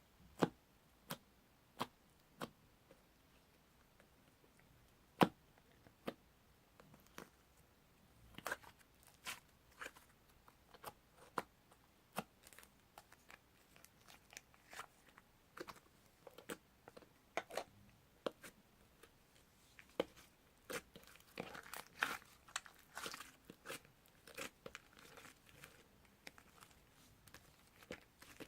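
Slime being pressed, stretched and poked by hand, giving sharp clicks and little pops. The pops come singly, about a second apart at first, then crowd into a dense crackling run in the last several seconds.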